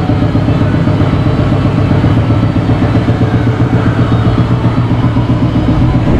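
Dodge Hellcat's supercharged 6.2-litre Hemi V8 idling steadily through an exhaust with the mid-pipe deleted and the stock mufflers and resonators still on.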